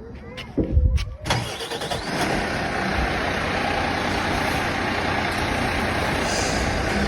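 Bin lorry engine cranking briefly and then catching, settling into a loud steady run.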